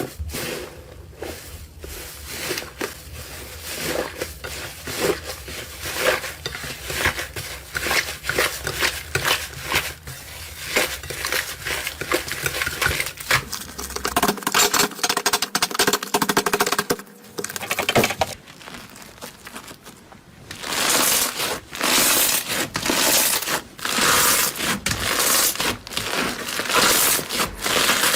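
Close crunching and crackling of a soft crumbly material being crushed and squeezed: a dense run of quick crackles, louder and busier in the last third.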